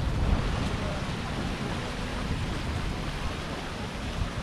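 Wind buffeting the action camera's microphone, a steady rumbling noise.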